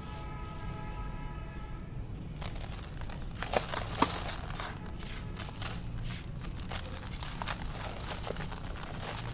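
Dry, dusty black concrete crumbling, a dense run of crunches and crackles that starts about two seconds in, with two sharper snaps a second or so later. Before it, a steady hum with a few held tones, and a low rumble underneath throughout.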